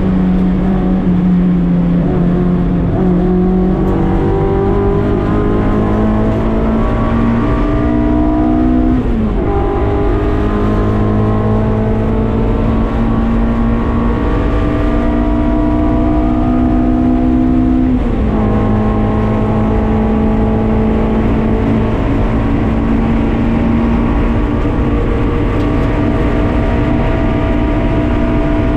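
Honda K24 four-cylinder with a K20 head in a Mazda MX-5 race car, pulling hard under acceleration. The pitch climbs steadily through long gears, and two upshifts about nine and eighteen seconds in each drop the pitch before it climbs again.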